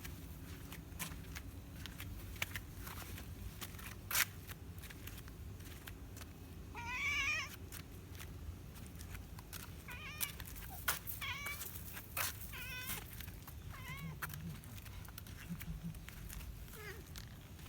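A cat meowing: one longer, high wavering meow about seven seconds in, then several short high meows. A few sharp clicks fall in between.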